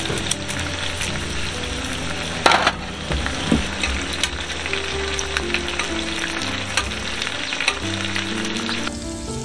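Pork belly sizzling and crackling in a hot pan, with one sharp clack about two and a half seconds in. The sizzle drops away just before the end.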